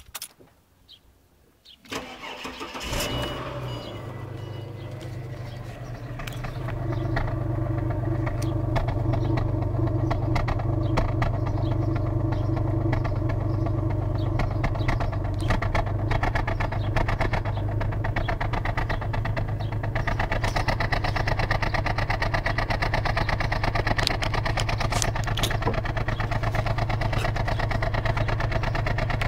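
2004 Ford Falcon XR6's inline six starting from cold about two seconds in, then idling unevenly, getting louder a few seconds later. The roughness is a cold-start-only misfire that new plugs, coils and gaskets have not cured.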